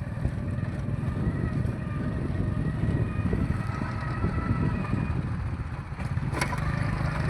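A vehicle or machine engine rumbling steadily, with a single sharp click about six seconds in.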